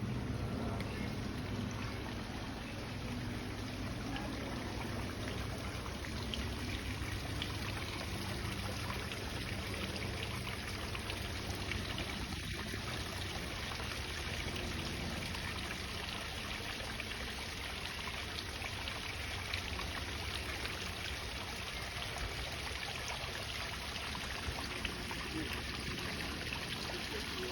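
Water running steadily, a continuous trickling and splashing.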